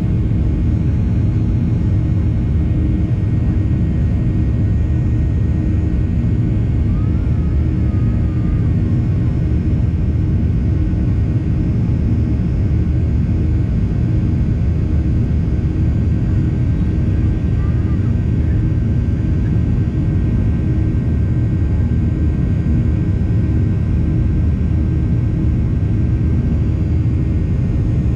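Steady rumble and whine of a Boeing 737's jet engines and airflow, heard from inside the passenger cabin.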